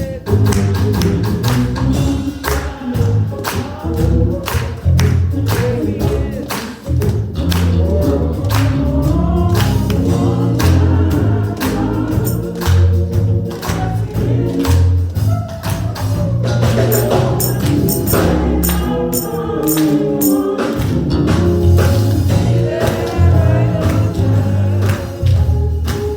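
Gospel music with singing, a strong bass line and tambourine-like percussion keeping a steady beat.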